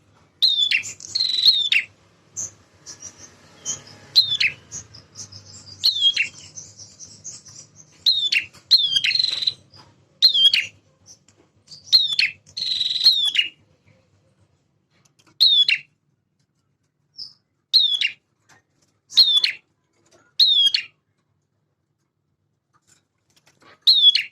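Male prinia singing: repeated sharp calls that each sweep quickly downward, with a fast, high chattering trill a few seconds in. The calls then come singly, about every one to two seconds, and a few seconds of pause follow before one more call at the end.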